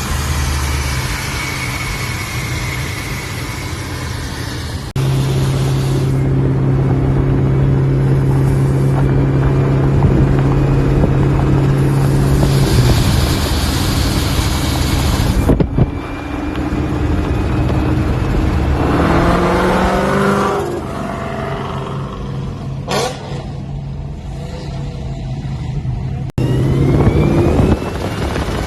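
Boosted Coyote 5.0 V8 of a Ford Mustang running through its exhaust, in several clips joined by sudden cuts: a held steady engine note for a stretch, then revs that rise in pitch.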